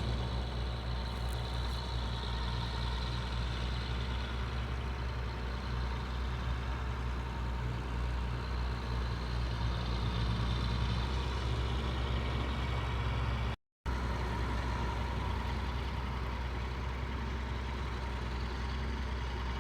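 County tractor's diesel engine running steadily at light load, not working hard. The sound drops out for a split second about two-thirds of the way through.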